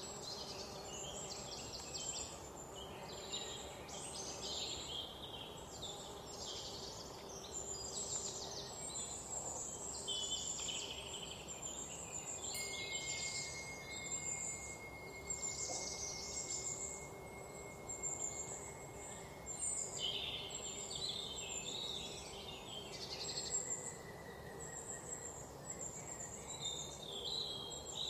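Small birds chirping and twittering over a steady background hiss, the calls coming in quick clusters throughout. A thin, steady high tone runs for several seconds in the middle.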